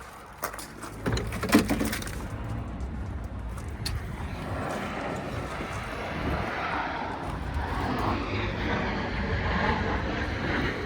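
A few sharp knocks early on, then the rushing noise of a jet aircraft overhead that builds gradually from about four seconds in.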